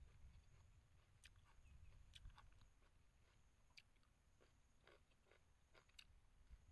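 Faint chewing and mouth sounds of a person eating a shrimp and vegetable stir-fry with chopsticks: scattered soft clicks over a low rumble.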